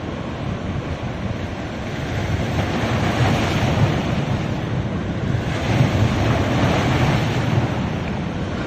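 Ocean surf breaking on a beach, swelling twice as waves wash in, about three and six seconds in, with wind rumbling on the microphone.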